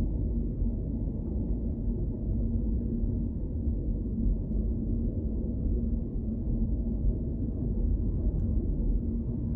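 A car being driven: steady low road and engine rumble with a faint constant hum.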